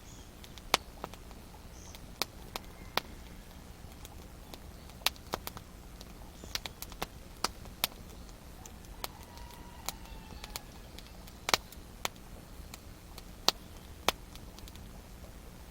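Wood campfire crackling, with irregular sharp pops and snaps over a low steady background.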